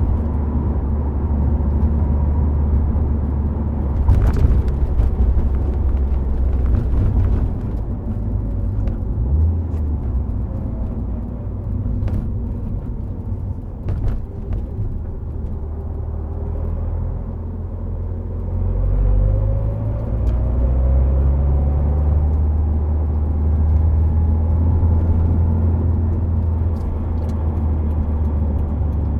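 Subaru Impreza WRX STI Spec C with an A-RM aftermarket exhaust, driving at speed: a deep engine and exhaust drone under steady tyre and road noise, with a few sharp knocks in the first half. About two-thirds of the way in, the engine note climbs as the car accelerates, then settles into a steady drone again.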